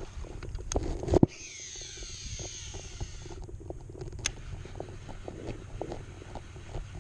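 Handling noises on a fishing kayak: a loud knock about a second in, then a falling hiss lasting about two seconds, followed by light ticking.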